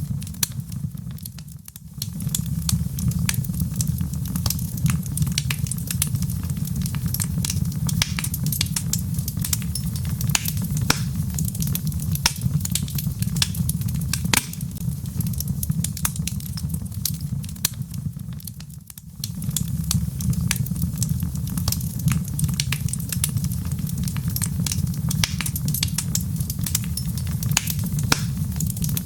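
Wood fire burning in a fireplace: a steady low rumble of flame with constant sharp crackles and pops from the logs. The rumble dips briefly twice.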